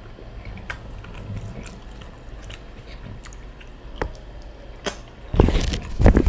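Close-miked eating sounds: chewing with scattered small mouth clicks, then louder low, muffled bursts about five and a half and six seconds in.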